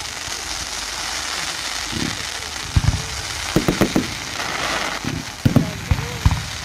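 Aerial fireworks going off: a steady crackling hiss, with a run of sharp bangs from shell bursts in the second half.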